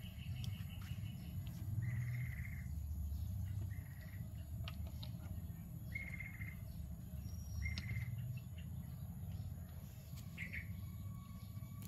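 A bird calling in a repeated series of short, even notes, one about every two seconds, over a low steady rumble.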